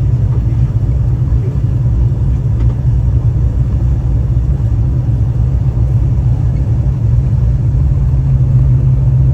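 Aircraft noise: a steady, loud low rumble.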